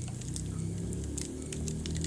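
Wood fire in a fireplace crackling, with irregular sharp pops over a low, steady hum of the flames.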